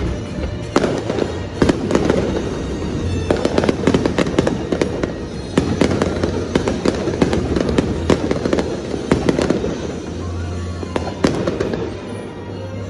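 Fireworks going off in rapid succession, many sharp bangs and crackles close together, with show music playing over loudspeakers underneath.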